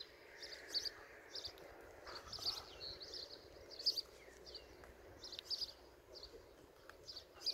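Small birds chirping in short high bursts, about once a second, over faint rustling of gloved hands pushing wires into a plastic junction box.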